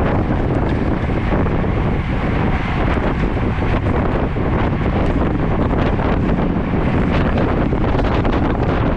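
Loud, steady wind buffeting the microphone of a camera carried on a moving road bicycle, a dense rushing roar with no breaks.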